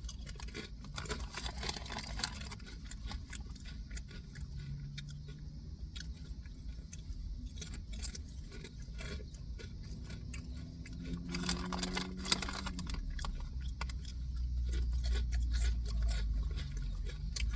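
Potato chips being chewed, a long run of irregular crisp crunches and clicks close to the microphone.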